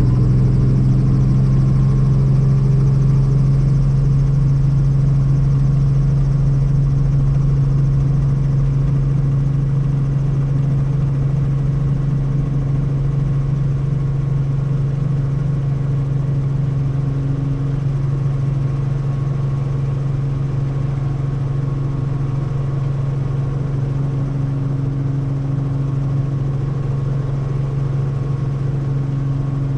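Helicopter running with a steady low drone.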